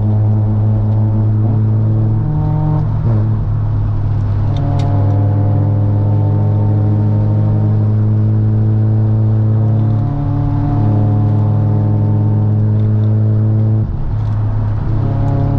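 Mazda FC RX-7's 13B rotary engine under way on a backroad run, its note held fairly steady at part throttle. The note breaks briefly three times: about three seconds in, around ten seconds, and near the end.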